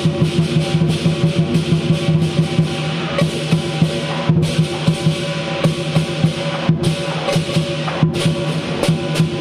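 Lion dance percussion: a big drum beaten in fast, dense strokes over crashing cymbals and a steadily ringing gong, with the cymbals breaking off for a moment several times.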